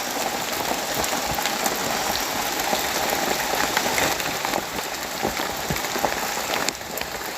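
Rain falling steadily, a continuous hiss dotted with many small drop hits.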